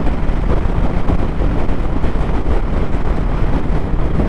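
Steady wind rush buffeting a GoPro's microphone on a moving motorcycle, with the bike's engine and road noise underneath at riding speed.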